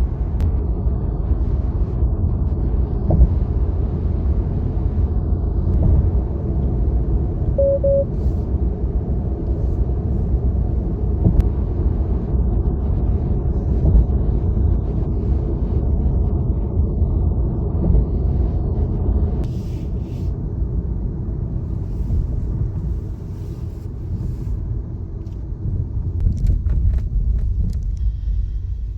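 Tesla electric car driving at highway speed: a steady low rumble of tyres on the road, with no engine note. There is a short faint beep about eight seconds in, and the rumble eases a little for a few seconds past the middle.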